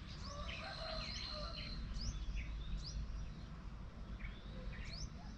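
Birds chirping repeatedly, short high calls and quick rising and falling notes, over a steady low rumble.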